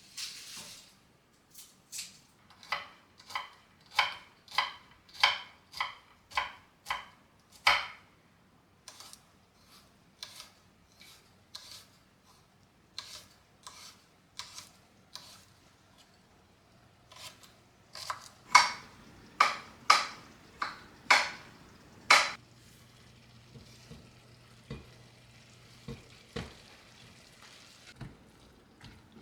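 A utensil stirring in a bowl, knocking against its side in rhythmic strokes about twice a second. There are two strong runs of strokes with lighter taps between them.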